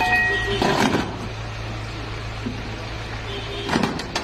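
Steady low drone of a car's engine and road noise, heard from inside the car through a dash camera. There is a short louder burst of noise under a second in and a few sharp knocks near the end.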